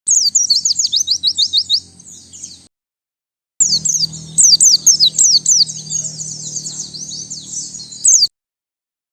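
White-eye (pleci) song: fast runs of high, sharply falling chirps, several a second. They come in two phrases, one of about two and a half seconds and a longer one of about four and a half seconds after a short silence.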